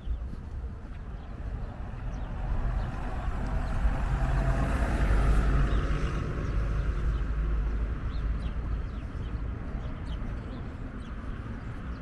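A car passing by on the street, its tyre and engine noise swelling to a peak about halfway through and then fading, over a steady rumble of wind on the microphone.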